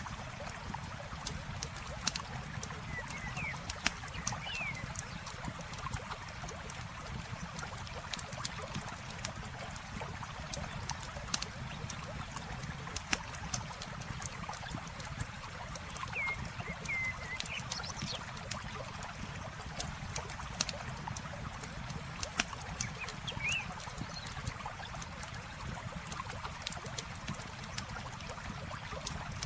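Campfire crackling with frequent sharp pops over a steady trickle of flowing water, with a few short chirps now and then.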